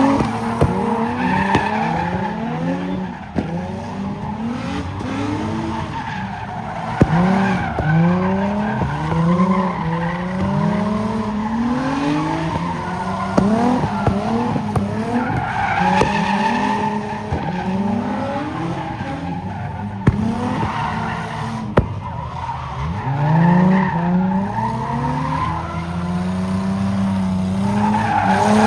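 Cars spinning in a car pit: engines revving up again and again in quick rising sweeps, overlapping, with tires squealing and skidding on the pavement.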